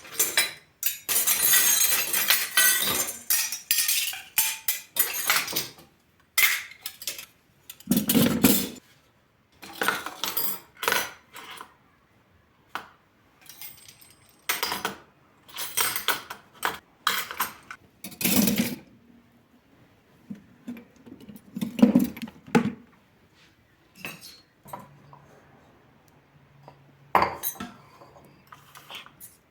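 Kitchen dishes and cutlery clattering and clinking as they are handled, busy at first, then in scattered clinks with a few heavier knocks.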